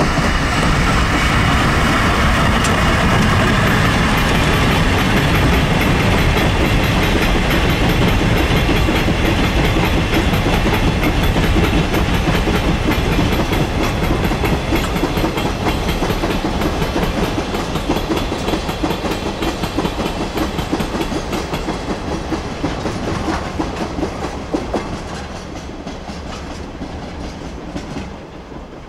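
Train passing close by, its wheels clacking steadily over rail joints; the sound fades as it moves away in the last few seconds.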